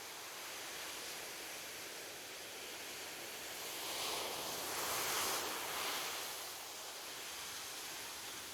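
Ocean waves washing on a beach: a steady hiss of surf, with one wave breaking and rushing up the shore, loudest about five seconds in, before easing back.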